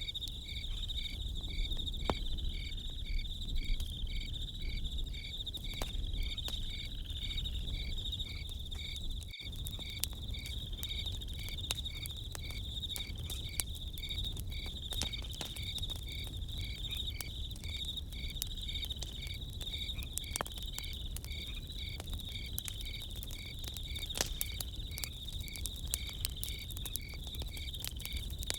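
A chorus of crickets: a continuous high trill with a regular chirp about twice a second. A campfire crackles in short, scattered pops over a low rumble.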